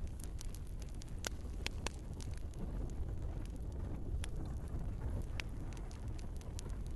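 Wood fire crackling in a fireplace: scattered sharp pops and snaps over a steady low rumble of burning, with two louder snaps a little over a second in.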